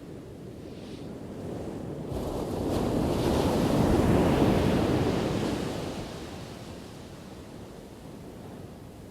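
Ocean surf with one wave crashing: the rush builds from about a second and a half in, peaks around four seconds, then washes out, leaving a steady hiss of the sea.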